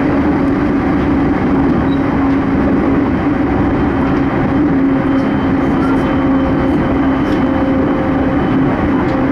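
Steady running noise of an E231-series electric commuter train at speed, heard from inside the carriage: an even rumble of the train on the rails with a steady low hum.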